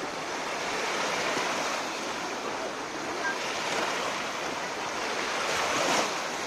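Black Sea surf washing steadily onto the shore, with one wave breaking a little louder near the end.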